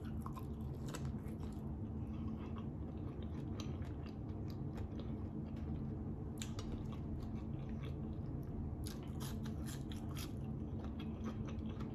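Person biting into and chewing barbecue-sauced fried chicken, with quiet, irregular mouth clicks and crunches. A french fry goes into the mouth near the end.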